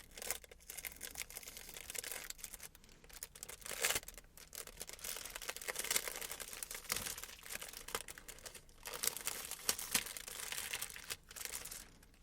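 Plastic wrapping crinkling and tearing as it is unwrapped from a gouache paint set: a dense run of crackles and sharp ticks, with brief pauses.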